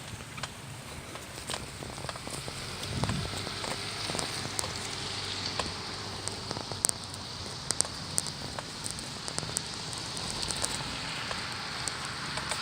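Steady rain falling, with scattered close raindrops ticking sharply.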